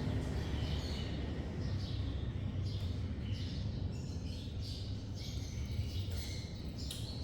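Parrots chirping in short, repeated calls, about one every half second to a second, over a steady low rumble.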